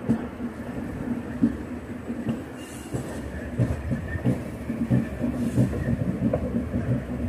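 Indian Railways passenger train running, heard from inside a coach: a steady rumble of wheels on rails with repeated thumps as the wheels cross rail joints.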